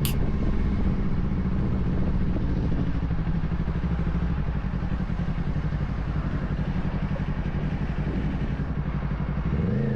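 Motorcycle engine idling steadily, its low, rapid pulsing even throughout, with a slight rise in revs right at the end.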